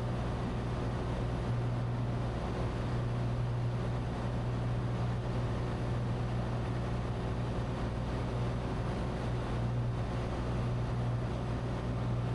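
Cessna 182T's six-cylinder Lycoming engine and propeller droning steadily in flight, heard from inside the cabin, with a constant low hum and airflow hiss.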